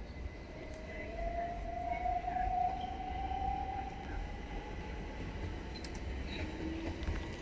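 Passenger train rolling slowly, heard from inside the carriage: a steady low rumble of the running gear with a long whining tone that rises slightly in pitch and fades out after about four seconds, then a fainter lower whine near the end.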